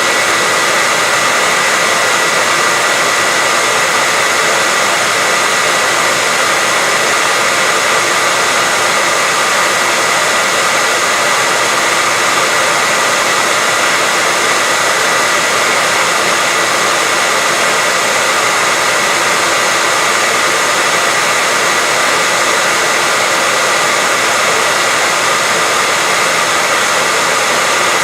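Steady white noise: an even, unchanging hiss with a faint high whistle running through it.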